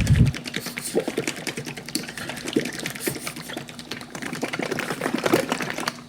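Bottle of scratch and swirl remover being shaken hard, the liquid inside sloshing with a fast, irregular rattle of clicks that stops just before the end.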